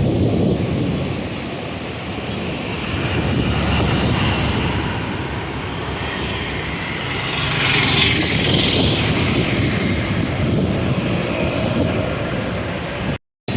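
River water rushing through open barrage gates, a steady heavy rush that swells with more hiss around the middle. The sound cuts out briefly near the end.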